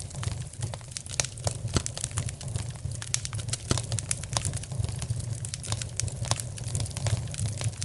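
Wood fire burning in a fireplace, crackling and popping with many sharp irregular snaps over a steady low rumble.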